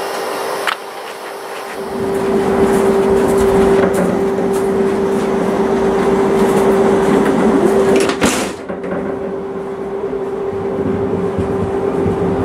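Old passenger coach of a diesel-hauled local train pulling away from a halt: a low rumble and a steady hum build up about two seconds in. A click comes just under a second in, and the vestibule door is shut with a short bang about eight seconds in.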